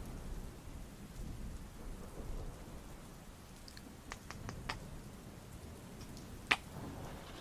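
Rain ambience with a low, steady rumble of distant thunder. A few faint sharp clicks come about four to five seconds in, and one louder click comes near the end.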